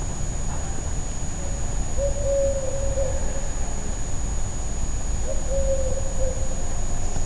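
A bird calling outdoors, one long, slightly falling note held about a second and a half, repeated about every three seconds, over a steady low rumble.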